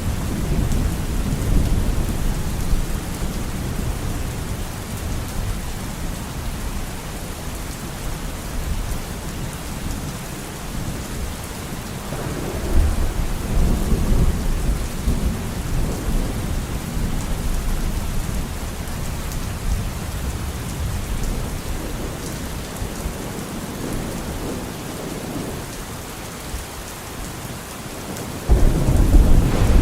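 Steady heavy rain hissing, with rolling thunder rumbling low under it at the start and again midway, and a louder thunder rumble breaking in suddenly near the end.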